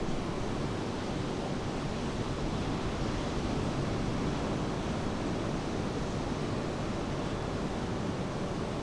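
Steady wash of rain and ocean surf, an even noise with no breaks.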